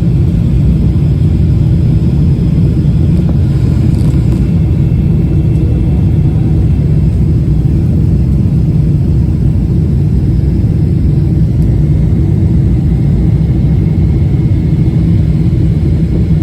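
Steady low rumble of a jet airliner heard from inside the passenger cabin, even in level with no rise or fall.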